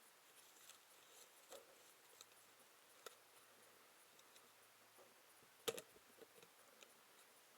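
Near silence broken by a few faint clicks, with one sharper click about five and a half seconds in.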